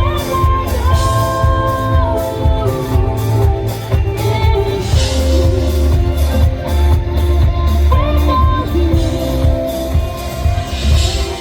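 Live band playing a song with electric guitar, bass and drum kit keeping a steady beat, with some singing over it.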